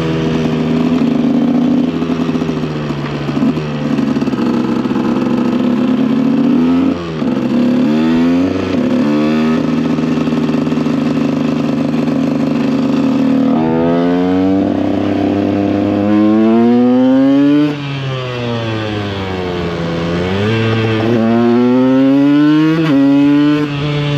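KTM EXC 125 single-cylinder two-stroke motorcycle engine under way. It holds steady revs, blips twice, then pulls up through the revs in a long rising wail. The throttle shuts suddenly and the revs fall away, then it pulls up again.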